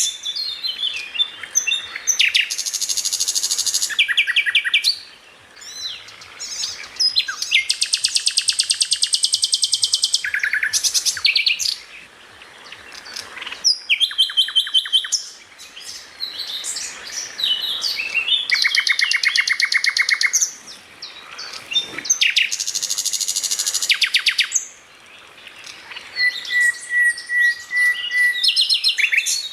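Cucak ijo (greater green leafbird) singing loudly in its rapid-fire 'tembakan' style: fast trills and quick runs of repeated high notes, in phrases of a few seconds with short pauses between them.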